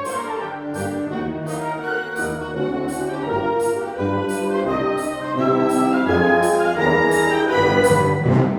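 Concert wind band playing, brass to the fore, over a steady percussion beat about twice a second; the full band grows louder about five seconds in.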